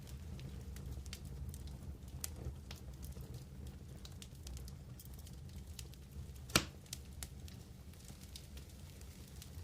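Wood campfire crackling: scattered small pops and snaps over a low steady rumble, with one loud, sharp pop about six and a half seconds in.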